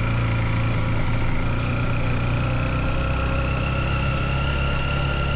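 Motorbike engine running steadily at low speed in first gear, with a thin high whine that rises slowly in pitch.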